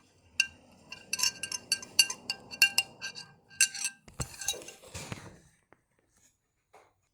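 A spoon clinking repeatedly against a dish, each tap ringing at the same pitch, for about four seconds. A few duller knocks and handling noise follow before it goes quiet.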